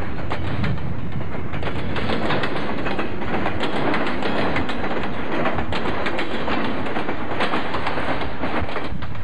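Double-stack container train rolling past close by: a steady rumble of steel wheels on the rails, with frequent irregular clicks.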